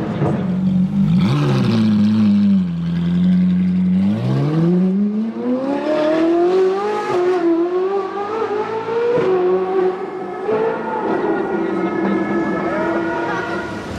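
Sports car engine and exhaust running loudly: it holds a steady low note for a couple of seconds, then revs up with its pitch climbing over about three seconds as it accelerates, and stays high for the rest.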